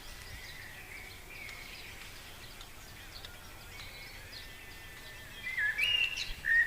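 Birds chirping and calling in short high notes, growing louder and busier near the end.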